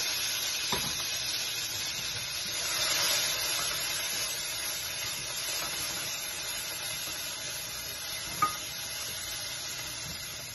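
Coriander and mint leaves frying in hot oil in a pressure cooker pot, a steady sizzle as a spatula stirs them. A single sharp metallic clink comes about eight seconds in.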